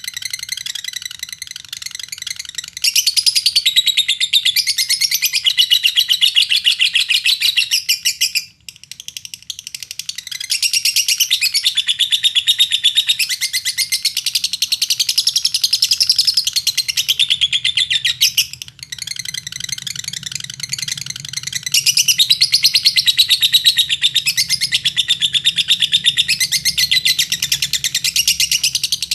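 Lovebird singing long, rapid chattering trills (the 'ngekek' song used as a lure to set other lovebirds singing), broken by two brief pauses, about a third and two-thirds of the way through.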